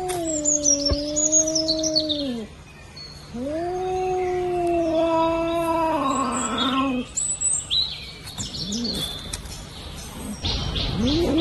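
Cat yowling at another cat in a standoff: two long, low, drawn-out yowls, the first falling in pitch as it ends, a warning to the rival. Birds chirp faintly and high above.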